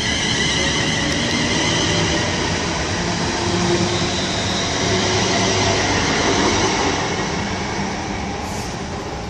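Class 350 Desiro electric multiple unit pulling out of the station with wheel-on-rail noise. Its traction equipment whines in several steady high tones that fade after a few seconds, while a lower tone rises slowly as it gathers speed. The sound grows quieter near the end as the train draws away.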